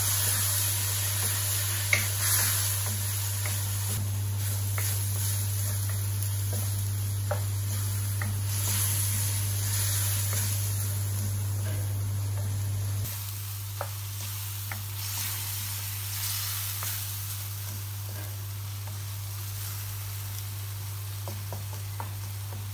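Chicken, tomatoes and green chillies sizzling in a hot black wok (karahi) while a wooden spoon stirs and scrapes them, with small clicks of the spoon against the pan and a steady low hum underneath. The sizzle drops a little about halfway through.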